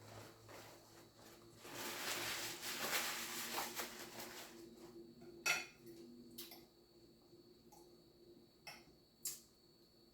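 Eating sounds at a table: a longer noisy stretch of handling and chewing in the first half, then a few sharp clinks of cutlery against a plate or bowl.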